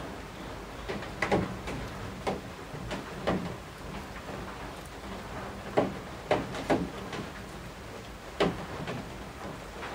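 Rain dripping from the eaves: about a dozen single heavy drops landing at irregular intervals, each a short plink that falls in pitch, over the steady hiss of falling rain.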